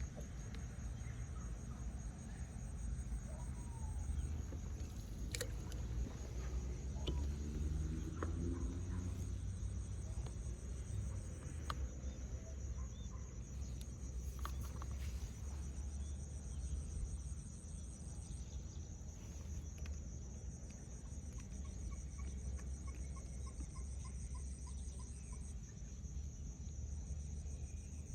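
Steady high-pitched insect chirring over a low rumble, with a few faint bird calls, including a short run of repeated notes near the end.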